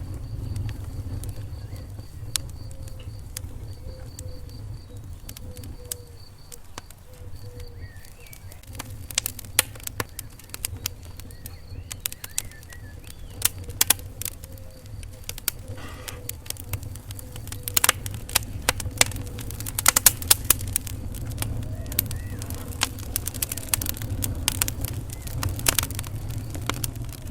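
Wood fire in a fireplace crackling, with irregular sharp pops over a steady low rumble of the flames. The pops grow more frequent and louder in the second half. A faint high pulsing whistle is heard through the first half.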